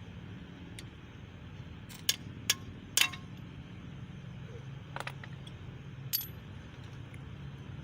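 Several sharp metallic clinks and taps of hand tools against engine parts, the loudest three coming close together about two to three seconds in and one near six seconds ringing briefly, over a steady low background hum.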